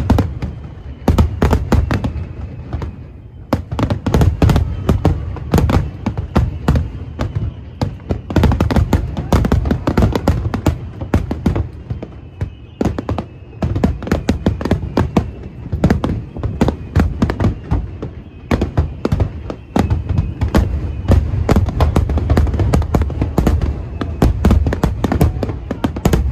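Aerial firework shells bursting in a rapid, continuous barrage: many sharp bangs and crackles each second over a deep, steady rumble.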